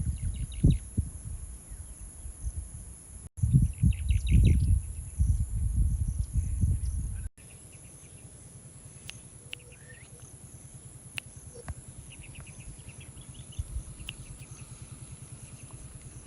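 Outdoor ambience: low gusts of wind buffeting the microphone for the first half, then quieter. Small birds give several short, rapid chirping trills, over a steady high insect drone.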